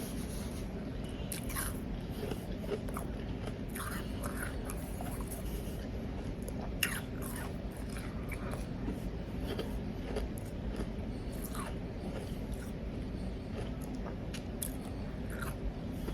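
A person biting and chewing powdery ice, with irregular crisp crunches, the sharpest about seven seconds in, over a steady low background hum.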